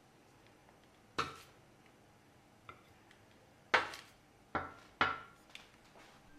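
Dishes or kitchen utensils knocking and clinking: a few separate sharp knocks with short ringing tails, the loudest a little past halfway and two more close behind it.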